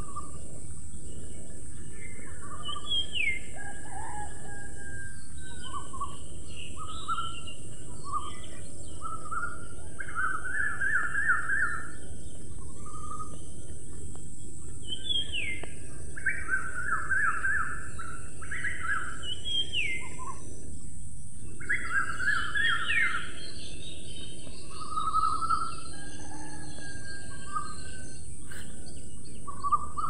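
Wild birds chirping and singing: short slurred whistles and quick trilled runs of chirps, coming and going throughout. Underneath is a steady outdoor background noise with a constant high hiss.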